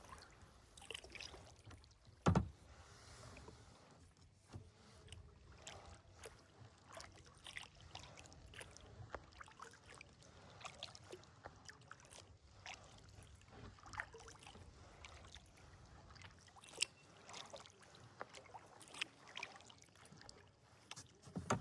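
Kayak being paddled on calm water: soft, irregular paddle splashes and drips with small knocks, and one loud knock about two seconds in.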